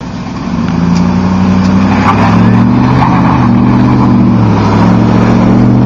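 A motor vehicle engine running loudly and steadily, its pitch rising and falling slightly.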